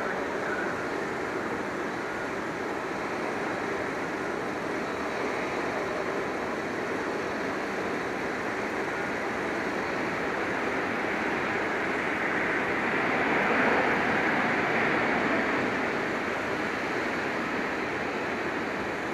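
Jet airliner engines running with a steady rushing roar that swells louder about two-thirds of the way through, then eases.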